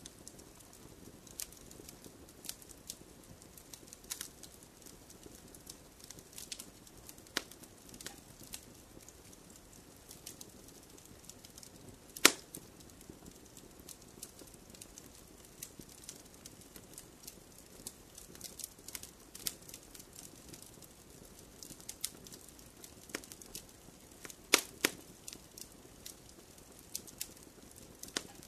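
Wood fire crackling over a soft hiss, with irregular sharp snaps and pops; the loudest pop comes about 12 seconds in and two more close together near 25 seconds.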